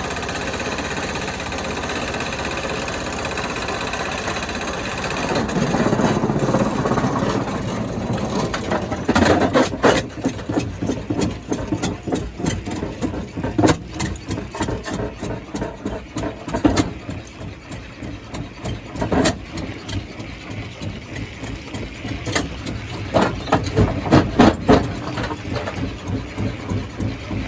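Stone crusher running with a steady engine-like drone; from about nine seconds in, repeated sharp knocks and cracks come irregularly as rock is broken.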